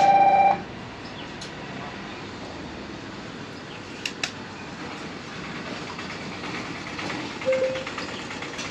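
A horn sounds loudly on two steady notes for about a second at the start. Then there is a steady background hum, with two faint clicks about four seconds in and a short, higher beep near the end.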